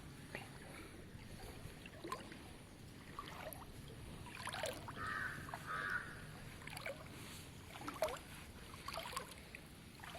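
Faint sloshing and small splashes of floodwater, with scattered light clicks.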